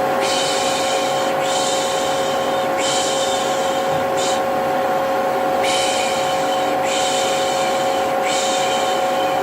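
Vacuum cleaner running steadily with a constant whine, under a rhythmic 'shh' shushing, as used to soothe a baby: three long shushes and a short one, then the pattern starts again about five and a half seconds in.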